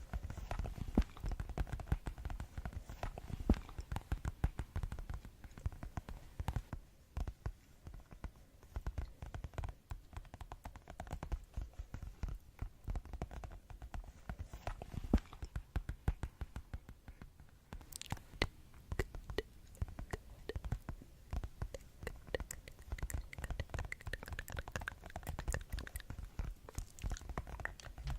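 Fast ASMR tapping: a dense, uneven run of many quick light taps, several per second, with no let-up.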